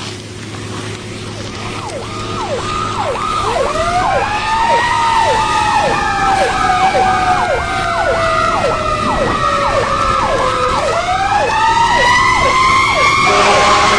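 Emergency vehicle sirens: a fast yelp repeating about twice a second, joined a few seconds in by a slow wail that rises, falls and rises again, the whole growing louder. A steady horn-like tone starts near the end.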